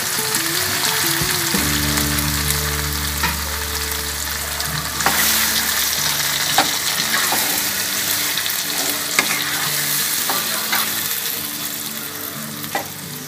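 Chopped taro stems sizzling in hot mustard oil in a kadai while a spatula stirs them. The sizzle is a steady hiss, and the spatula scrapes and knocks against the pan several times.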